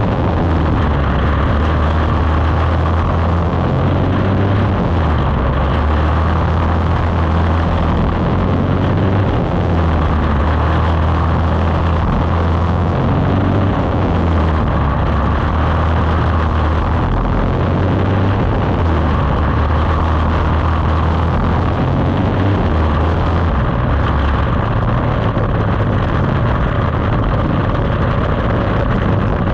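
Quarter midget racing engines (Briggs & Stratton Animal single-cylinder four-strokes) running hard, the engine note rising and falling every few seconds as the cars come off and back onto the throttle through the turns of the small oval.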